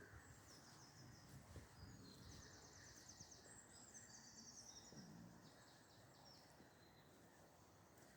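A small songbird singing faintly: a few high, rapid trilled phrases in the first half or so, over quiet outdoor background.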